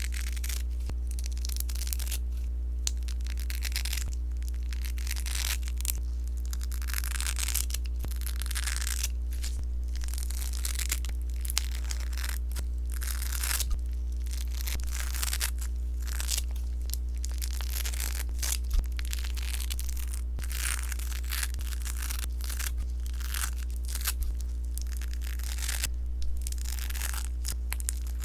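Sponge slime being squeezed and worked by hand, giving repeated crackling, popping squishes about once a second, with occasional sharper pops. A steady low hum runs underneath.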